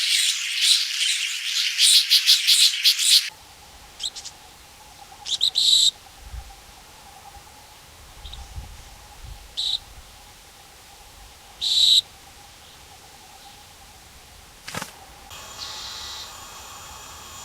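Rainforest birds chirping in a dense high chorus that cuts off abruptly about three seconds in. A few short, high single chirps follow over quiet forest ambience, and a fainter chorus builds again near the end.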